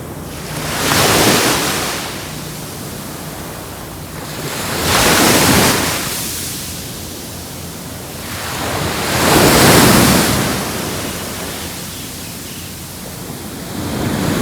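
Sea waves breaking on a beach, the surf swelling and falling back about every four seconds: three loud washes, with a fourth building near the end.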